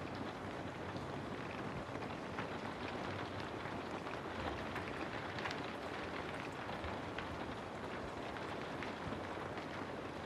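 Steady rain falling: an even hiss with scattered brief ticks of individual drops.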